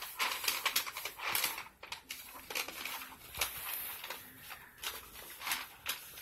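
Drapes being handled and pulled at a window: irregular rustling with scattered clicks and taps.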